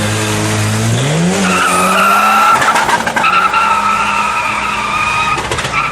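A sport motorcycle engine revs up sharply about a second in and is held high, giving a steady high-pitched scream for several seconds before it drops near the end.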